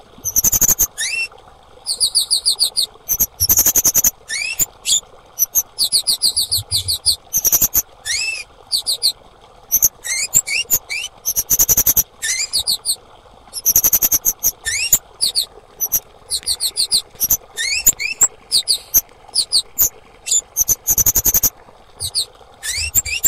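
Female kemade calling: bursts of rapid, high-pitched chirps, repeated over and over, each burst mixed with short upward-sweeping notes, over a faint steady hiss.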